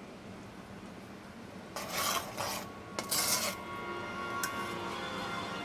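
Kitchen handling noise: two short scraping or rubbing sounds from cookware being moved, the second preceded by a sharp click, followed by a faint steady hum with a thin whine in it.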